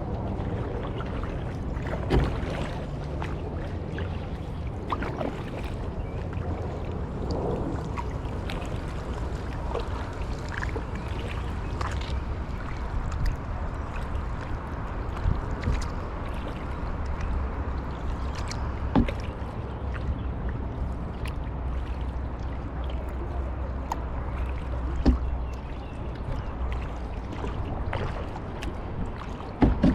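Kayak paddling: paddle blades dipping and splashing with water dripping, and a few sharp knocks, loudest about two seconds in, near the middle and near the end, over a steady low hum.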